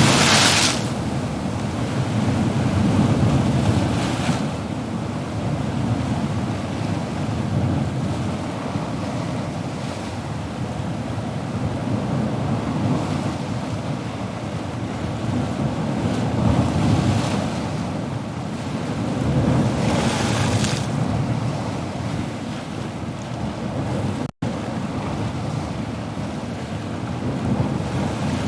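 Ocean surf: a continuous wash of waves with several louder breakers swelling and receding every few seconds. The sound cuts out for a split second late on.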